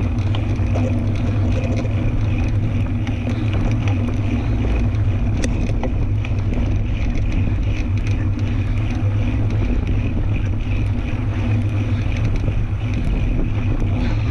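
Fat-tyre tandem mountain bike being ridden on a dirt trail: wind buffeting the microphone over the tyre rumble, a steady low noise with scattered small clicks and rattles.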